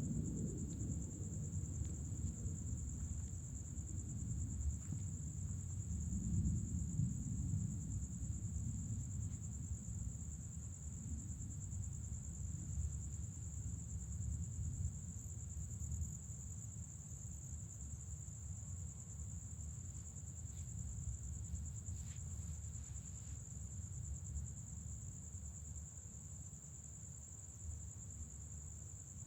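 Night insects trill in one steady, high, unbroken note. Under them, distant thunder rumbles low, swelling a few seconds in and then slowly fading.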